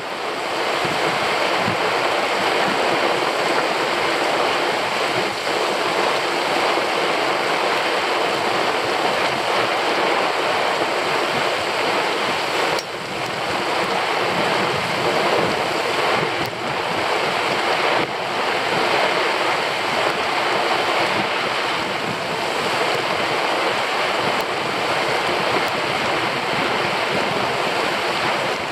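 Heavy rain pouring down on a lake, a loud steady hiss of drops on the water and on an umbrella overhead, with a few sharper taps of drops now and then.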